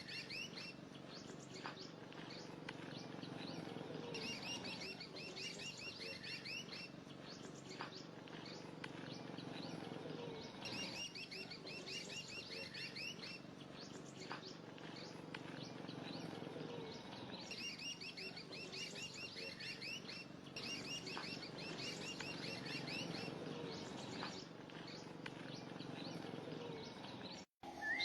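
A songbird singing short phrases of quick, repeated chirping notes, a phrase every several seconds, over a faint steady background.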